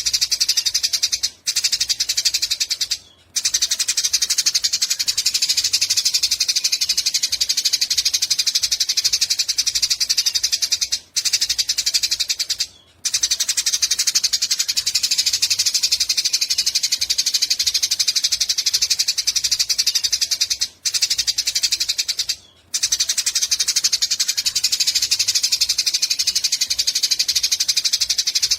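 Eurasian tree sparrow giving a long, rapid, high-pitched chattering 'cret-cret' call in near-continuous runs. The runs break off for a moment in pairs of short gaps that come back about every ten seconds, as in a looped song-training recording.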